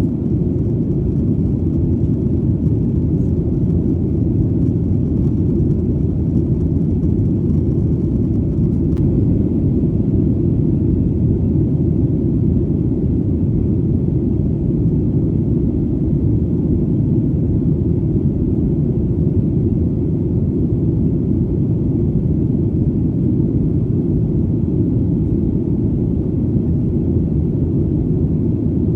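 Airplane engine drone heard as a steady, deep rumble with almost no high end, unchanging throughout.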